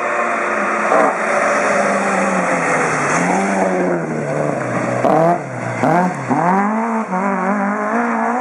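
Rally car engine under hard throttle. Its pitch holds and glides at first, then dips sharply and climbs again about three times in quick succession past the middle, as it shifts and gets back on the power.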